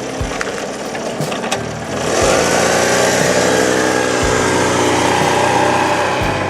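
Honda CD125 motorcycle engine running, growing louder and rising slightly in pitch about two seconds in as it revs up.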